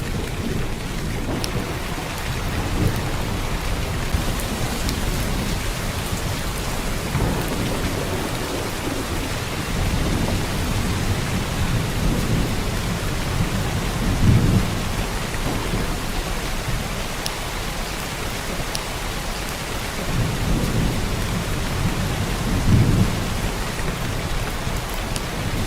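Heavy rain pouring down steadily, with scattered sharp drop ticks. Deep rumbles swell up a little over halfway through and again near the end.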